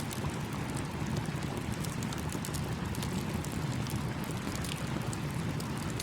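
Campfire crackling, with many small sharp pops scattered irregularly through it, over the steady rush of a babbling stream.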